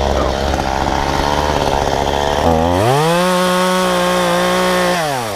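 Efco MTT 3600 two-stroke top-handle chainsaw running low. About halfway through it revs up to a high, steady full-throttle pitch, then drops back near the end.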